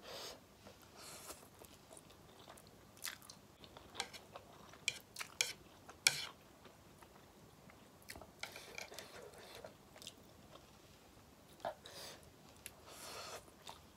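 Mouth sounds of a person eating spicy ramen with sausages: chewing and biting, heard as scattered short clicks and smacks with a few brief noisier bursts.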